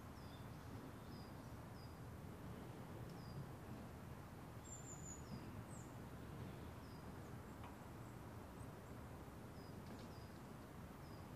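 Quiet woodland morning ambience: small birds giving short, high chirps every second or so, with one brighter, higher call about four and a half seconds in, over a steady low background noise.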